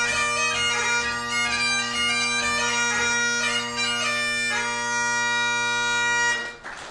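Great Highland bagpipe playing the last bars of a tune, the chanter melody over steady drones, until the pipes stop about six and a half seconds in. Applause starts right at the end.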